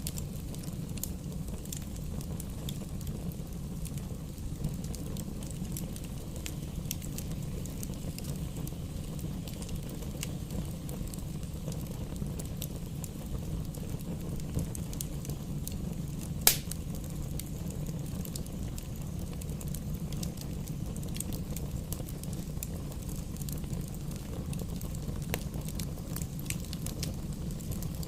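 Campfire burning, with scattered crackles and small pops over a steady low rush. One loud, sharp pop comes about sixteen seconds in.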